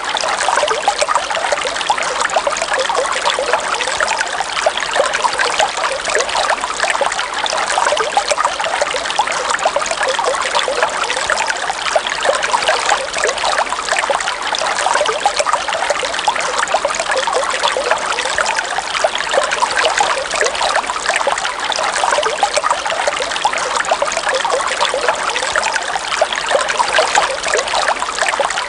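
River water running and trickling steadily, a dense babble of small splashes.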